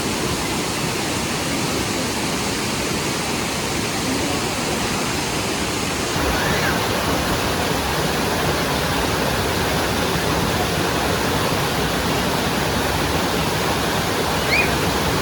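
Steady rush of a mountain waterfall, a continuous full hiss of falling water. About six seconds in it gets louder and brighter, and two brief faint chirps sit on top.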